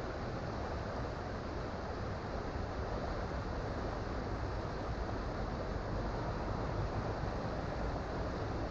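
Creek water rushing and burbling steadily, a constant even rush with most of its weight in the low and middle range.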